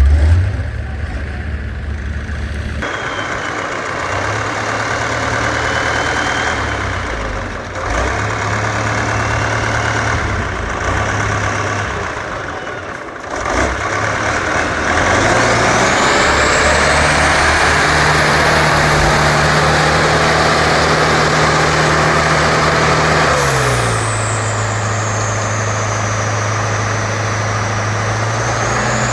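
Competition trial truck's diesel engine working under load, its revs climbing and held high, then dropping back about two-thirds of the way through. A high whine rises and falls with the engine speed.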